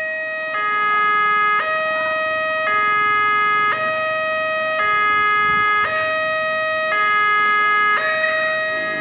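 Level crossing warning alarm sounding: an electronic two-tone signal that switches back and forth between two notes about once a second, warning that a train is approaching.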